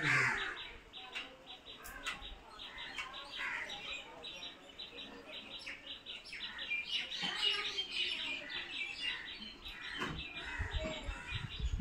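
Birds chirping, many short calls in quick succession, with a low rumble near the end.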